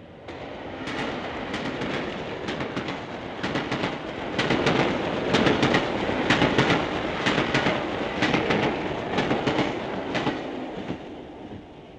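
A train passing: a rumble that builds, is loudest in the middle and dies away near the end, with the clickety-clack of wheels over rail joints running through it.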